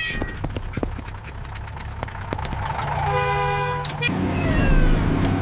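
Cartoon vehicle engine running with a steady low rumble, and one horn honk lasting about a second, about three seconds in.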